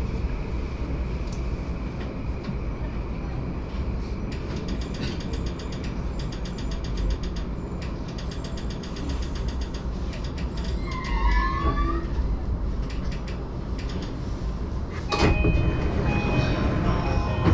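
Steady low rumble of a JR Yamanote Line train running, heard from inside the carriage. A brief gliding squeal comes about eleven seconds in, and a loud knock about four seconds later, followed by short high tones.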